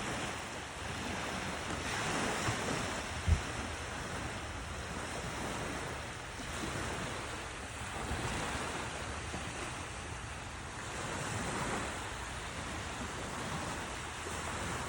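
Ocean surf breaking and washing up on a beach, a steady rush of water swelling and fading every few seconds. Wind buffets the microphone, with one brief low bump about three seconds in.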